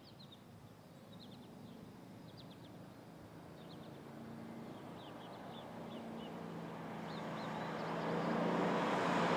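Birds chirping over quiet outdoor background, while a car's engine hum grows steadily louder through the second half as the car approaches.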